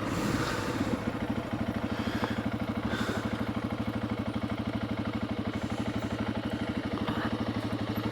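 Honda CRF300 Rally's single-cylinder four-stroke engine idling, a steady, evenly pulsing chug.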